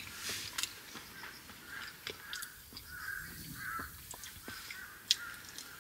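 A bird calling outside in the trees, a run of about eight short calls between two and five seconds in. A few sharp clicks of metal chopsticks picking at takoyaki in a paper box, the loudest a little after five seconds.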